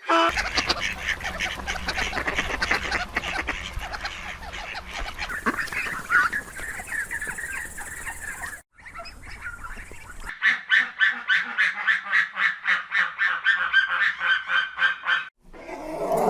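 Domestic waterfowl calling: a flock's many rapid, overlapping calls, then, after a cut, a run of quick, evenly spaced calls at about five a second.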